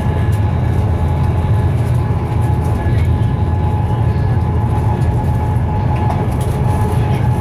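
Inside a Class 390 Pendolino electric train running at speed: a steady low rumble of the wheels on the track, with a faint steady high whine over it.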